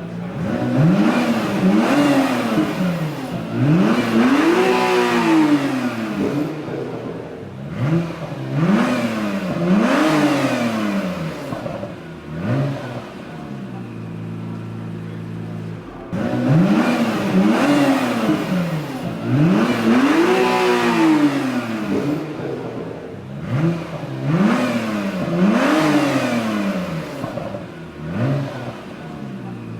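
2017 Acura NSX's twin-turbo V6 being revved in quick blips from idle, the pitch rising and falling with each rev. Two runs of about half a dozen revs each, with a few seconds of steady idle between them.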